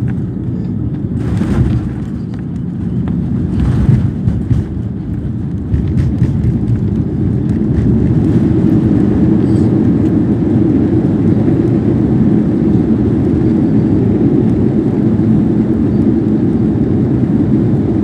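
Airbus A340 cabin noise during the landing: a steady low rumble of engines and rushing air, with a couple of brief knocks in the first few seconds. The rumble grows louder about six seconds in and holds there.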